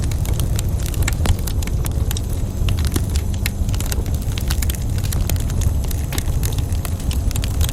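Wood fire burning in a fireplace, with irregular crackles and pops over a steady low rumble of the flames.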